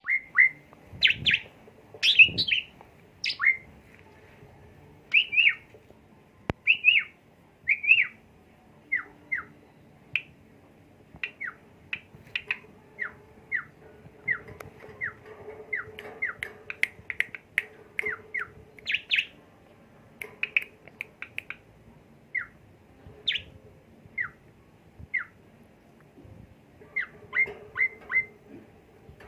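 Asian pied starling (jalak suren) singing: a long run of short whistled notes and chirps, many sliding downward, in irregular bunches, loudest in the first few seconds.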